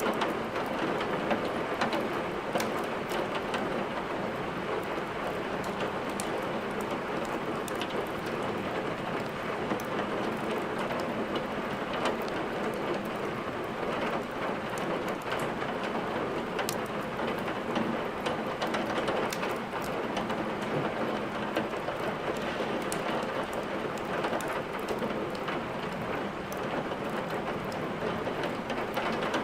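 Steady rain mixed with a crackling wood fire: an even rushing hiss with scattered sharp clicks and pops throughout.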